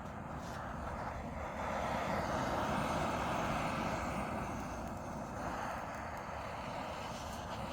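Engine noise of something passing at a distance, a rumble that swells for a few seconds and then fades back.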